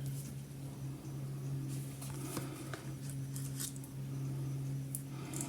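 Soft rustling and light taps of tarot cards being handled and laid out, a few scattered clicks over a steady low hum.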